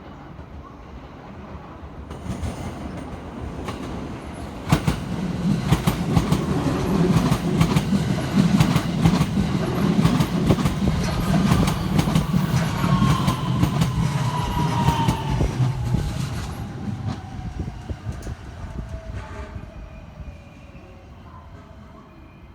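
Electric train passing through the station, its wheels clattering over the rail joints. It swells to a peak and fades away, with a tone that falls in pitch as it goes by.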